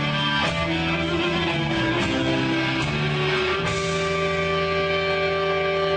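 Music led by guitar: a sequence of sustained notes changing about every half second, then a chord held from a little past halfway.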